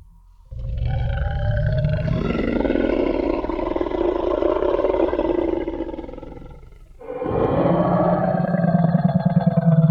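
Tyrannosaurus rex roar sound effect: two long, deep, growling roars. The first lasts about six seconds and fades out, and the second starts about seven seconds in.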